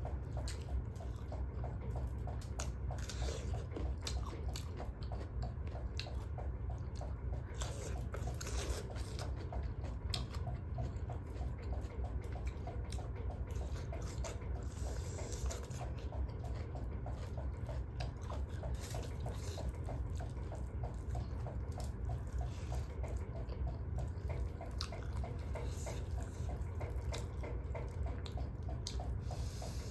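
Close-up wet chewing and mouth clicks of someone eating duck curry, irregular and continuous, over a steady low hum.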